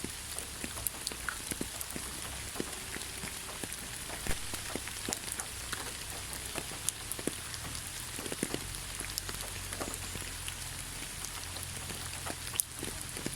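Steady rain falling in a pine forest: an even hiss with many individual drops ticking close by at irregular moments.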